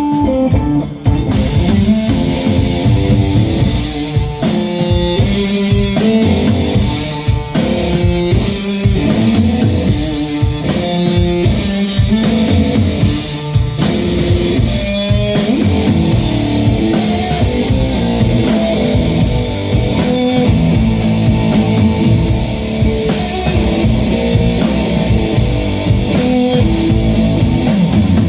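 Live rock band playing an instrumental passage: guitars, bass guitar and drum kit, with no singing.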